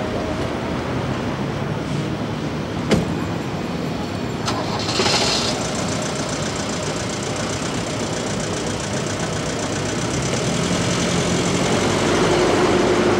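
Mercedes-Benz W123 saloon's engine starting and running amid street traffic, with a sharp knock about three seconds in and a brief hiss about five seconds in. The engine grows louder near the end as the car pulls away.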